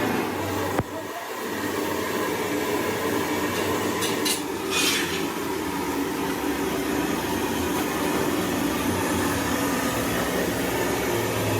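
An engine running steadily, with a sharp click about a second in and a brief hiss around four to five seconds.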